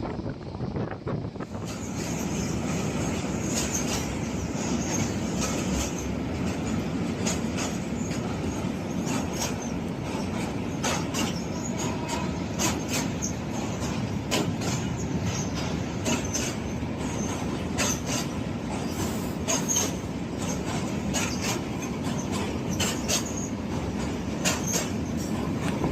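Upakul Express passenger train running on the track: a steady rumble of wheels and cars with many irregular rail clicks and a faint high wheel squeal. The sound steps up louder about a second and a half in.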